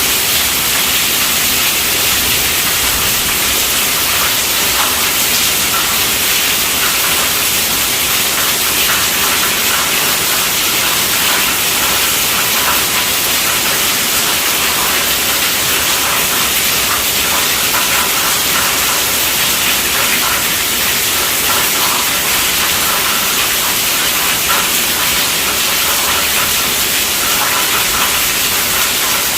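Heavy rain falling on a tent roof: a steady, dense hiss flecked with many small drop hits, with no let-up.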